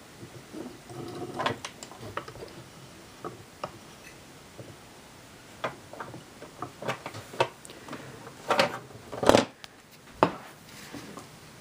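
Irregular clicks and knocks of toy train pieces and track being handled, with a louder clatter a little past halfway and a sharp knock shortly after.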